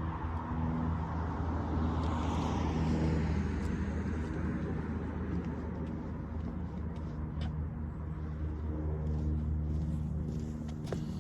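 A motor vehicle engine running steadily, with a broader rush that swells and fades about two to three seconds in.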